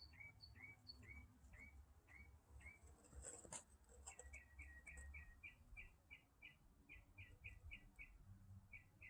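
Northern mockingbird singing faintly: a run of short repeated notes, about three a second, that switches about four seconds in to a quicker phrase of five or six notes a second, with a brief sharper note just before the switch.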